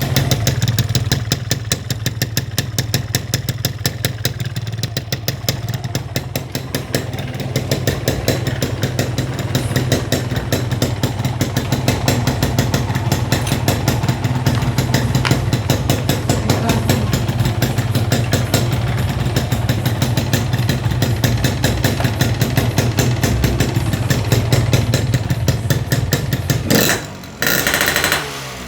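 Motorcycle engine running steadily at idle through an Altech C20 aftermarket exhaust, a rapid even exhaust beat with a strong low hum. Near the end the sound drops out briefly twice.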